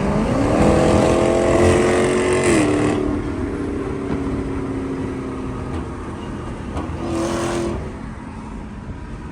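A car engine accelerating. Its pitch climbs in the first second and holds high for about two seconds, then drops back. A shorter burst of revving comes near the end as the sound fades.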